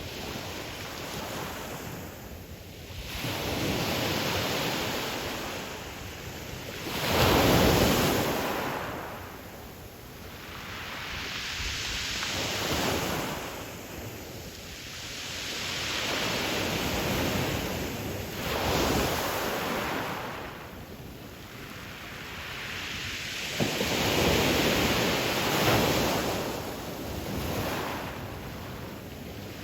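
Ocean surf: waves breaking and washing in one after another, each surge swelling and fading over a few seconds, the loudest about a quarter of the way in.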